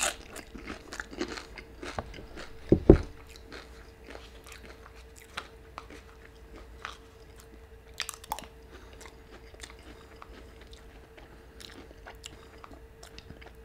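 Close-miked crunchy chewing of a chip, with sharp bites at the start and scattered small clicks of a spoon stirring and scraping in a cup of esquites. There is one loud low thump about three seconds in, and a faint steady hum underneath.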